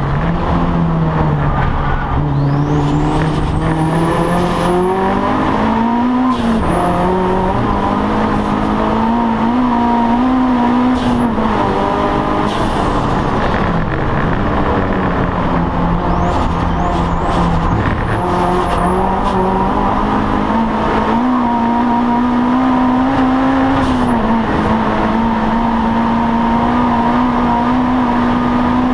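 Audi TT race car's engine heard from inside the cockpit, running hard at racing pace: its pitch climbs steadily and drops sharply at gear changes and lifts, about five times. A thin high whine rises and falls with it.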